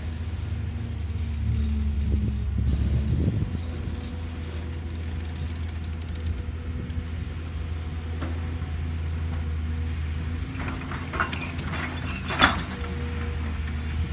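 Caterpillar excavator's diesel engine running steadily, swelling for a second or so about two seconds in, with a run of sharp knocks near the end, the loudest about twelve seconds in.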